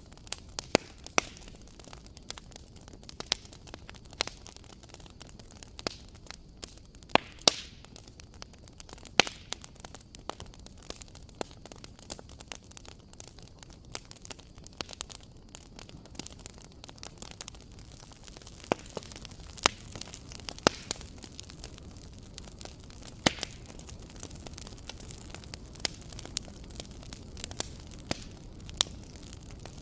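Fireplace fire crackling: irregular sharp pops and snaps over a low steady hiss.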